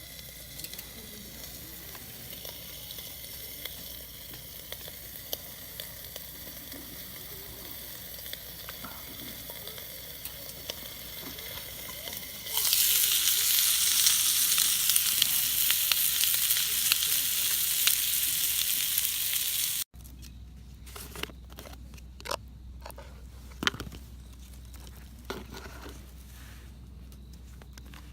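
Food sizzling in a grill pan, a steady hiss that jumps to much louder frying about halfway through. After a sudden cut, scattered sharp crackles and pops, typical of a wood campfire.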